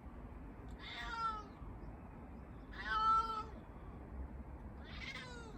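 Domestic cat meowing three times, each call short, the middle one loudest.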